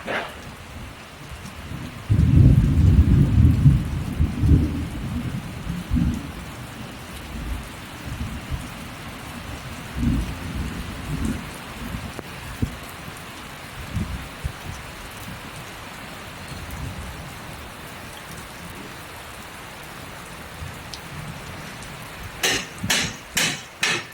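Steady rain hissing, with a loud rumble of thunder a couple of seconds in and fainter rumbles later. Near the end come a quick series of sharp knocks, about two a second.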